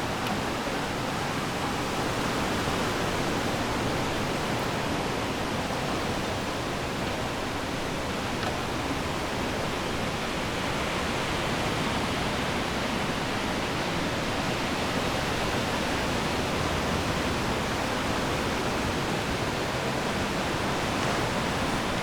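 Ocean waves washing onto the shore, a steady rushing hiss with no single wave standing out.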